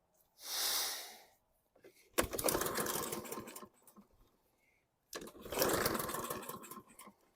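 A short hiss, then the Husqvarna LC221A walk-behind mower's small engine twice catching and running for a second or two before dying away. This starting and then stalling is the fault being chased.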